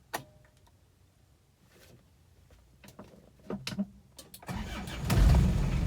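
Cold start of a 1993 Isuzu Panther 2.3 diesel engine: a few clicks, then about four and a half seconds in the starter cranks briefly and the engine catches at once and settles into a steady idle. An easy first start with its glow plugs working.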